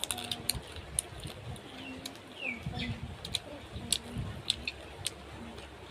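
Birds calling, with a short high chirp about two and a half seconds in, over a scatter of sharp clicks and taps.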